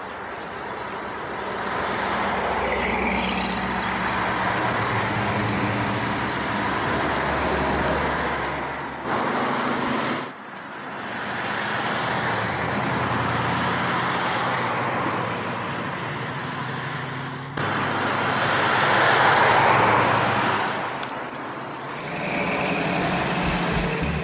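Classic cars driving past one after another, engines running with low tones under broad road noise, the sound swelling and fading as each one passes. The sound breaks off abruptly a few times, about 9, 10 and 17 seconds in.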